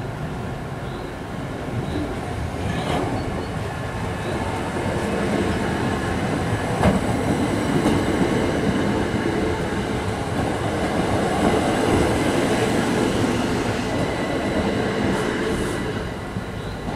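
Southeastern class 375 Electrostar electric multiple unit passing over a level crossing. Its wheel-on-rail rumble builds, runs loud for about eight seconds with a steady high whine and a sharp click about seven seconds in, then fades as the last carriage clears.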